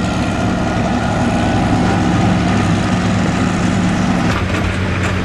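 Pulling tractor's engine idling steadily, a low, even hum with a faint steady whine above it.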